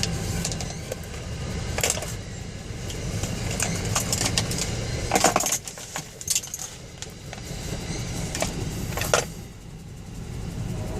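Train passing close by: a low rumble of the wheels on the rails with a few sharp metallic clanks and rattles. The rumble drops off somewhat about halfway through.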